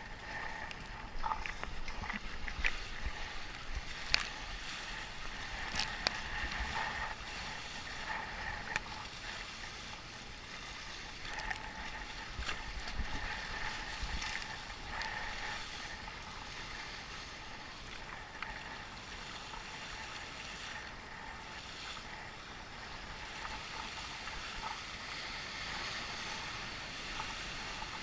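Water rushing and splashing around a sea kayak surfing wind waves, with wind on the microphone and a few sharp splashes in the first several seconds.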